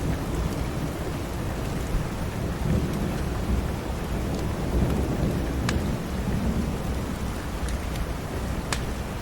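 Steady rain with a low rumble of thunder that swells through the middle, and a few scattered sharp crackles from a wood fire in a fireplace.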